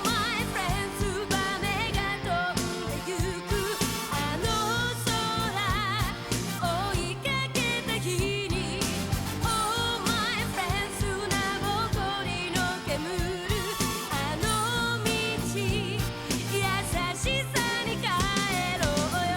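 Pop song: a singer's voice with heavy vibrato over a steady drum beat, most likely the episode's closing theme.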